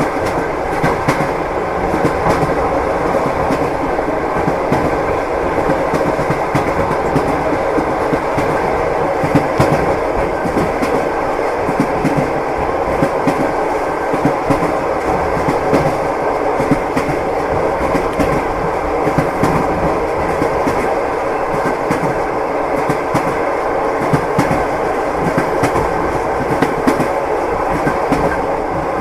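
Train wheels running over the rails with a steady rumble and repeated clickety-clack knocks from the rail joints.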